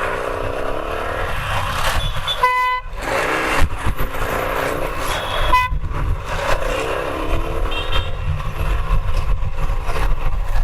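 Taro GP1 motorcycle riding in traffic, engine and wind rumbling on a helmet-mounted microphone. A vehicle horn gives one short honk about two and a half seconds in, with a briefer toot around five and a half seconds.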